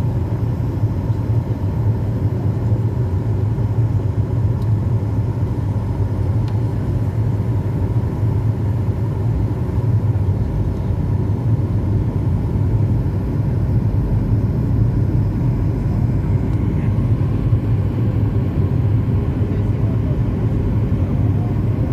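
Steady low rumble of a Boeing 737 MAX 8-200 in flight on its landing approach, its CFM LEAP-1B engines and airflow running evenly without rising or falling.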